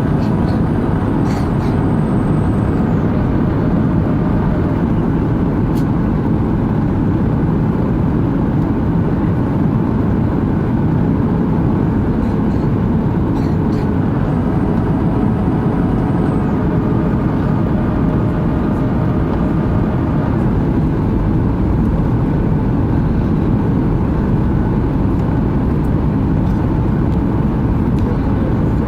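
Steady cabin noise inside a Boeing 737-800: a low, even rumble of its CFM56 jet engines and rushing air, with a few faint whining tones above it.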